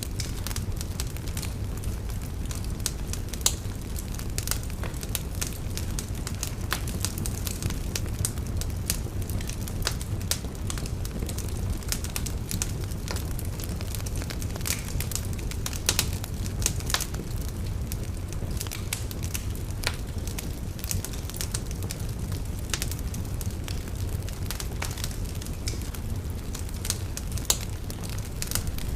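Wood fire burning in a fireplace: a steady low rumble of flames with continual crackling and snapping, and a few louder pops.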